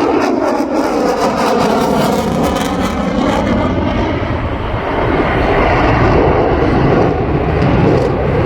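F-35 Lightning II fighter's single Pratt & Whitney F135 turbofan engine at speed as the jet passes low and fast for the carrier break. The engine noise sweeps in pitch as it goes by, with a crackle in the first few seconds.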